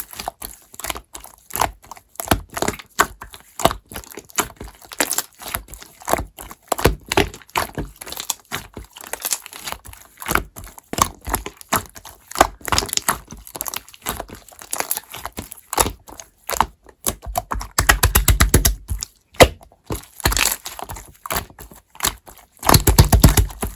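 Slime being squeezed and poked by hand, giving a continual run of sharp clicks and crackles. Twice, about three-quarters of the way in and near the end, it breaks into a fast dense popping.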